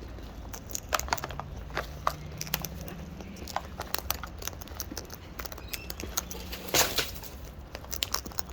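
Birds cracking and husking seed at a feeder: many small, irregular clicks and crunches from beaks on seed and container, with a louder rustling burst about seven seconds in.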